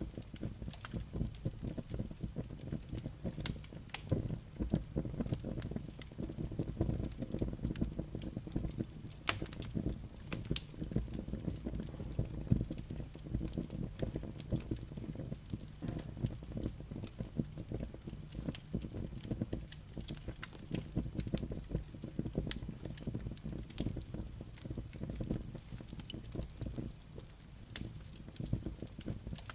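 Wood fire burning in a fireplace: a steady low rumble of flames with frequent sharp crackles and pops from the burning logs and embers.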